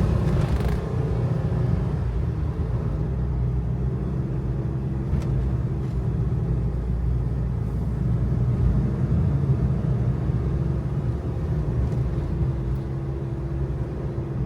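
Kei truck's small engine running steadily on a climbing road, with tyre and road noise, heard from inside the cab. The engine pitch drifts up and down a little, and there is one brief click about five seconds in.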